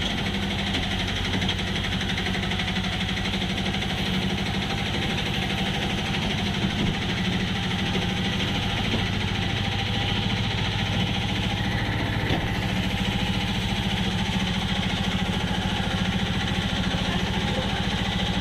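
Moving train, heard on board: a steady rumble with a fast, even rattle underneath.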